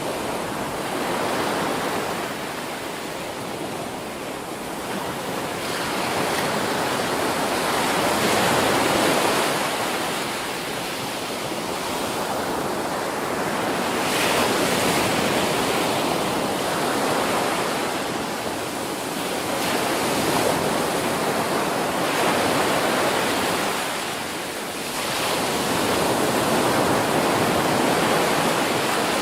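Ocean surf breaking on a beach: a continuous rush of water that swells and eases every few seconds as waves come in.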